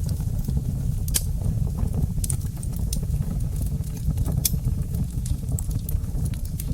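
Wood fire burning in a fireplace: a steady low rumble of flames with irregular sharp crackles and pops from the burning wood, louder ones about a second in and again around two, three and four and a half seconds.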